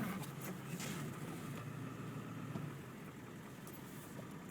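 A Ford 7.3 Powerstroke V8 turbo diesel idling steadily.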